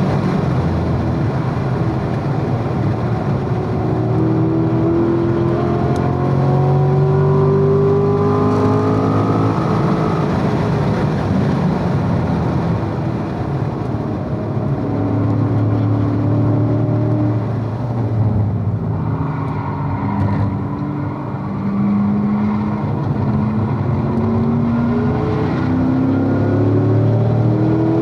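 2016 Corvette Z51's 6.2-litre V8, heard from inside the cabin, pulling hard through the gears on track: its pitch rises several times, dropping at each shift or lift for a corner, then climbs again near the end.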